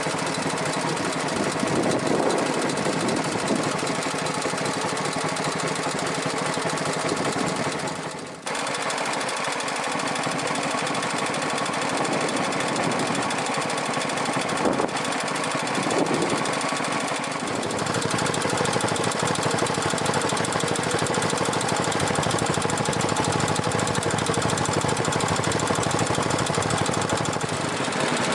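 Air-cooled Kubota stationary engine running steadily. The sound dips briefly about eight seconds in, then carries on.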